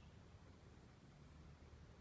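Near silence: a faint steady low rumble and a thin high hiss, with no distinct sound events.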